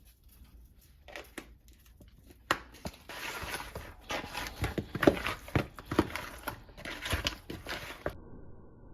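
Kitchen handling noises from seasoning flour: crinkling and rustling with irregular sharp clicks and taps. They begin about two and a half seconds in and cut off abruptly near the end.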